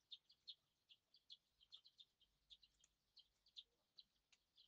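Small birds chirping faintly: many short, high chirps coming irregularly, several a second.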